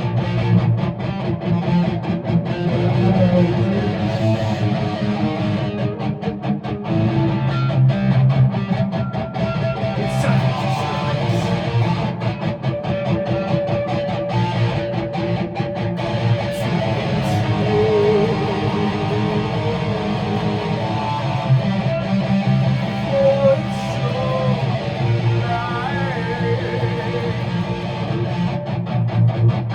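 Guitar playing steadily, chords sounding continuously with a wavering melody line in the middle of the passage.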